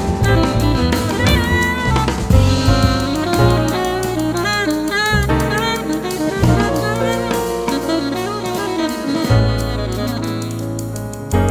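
Jazz quartet playing live: an alto saxophone carries a melodic line with bent, wavering notes over piano, bass and a drum kit with cymbals.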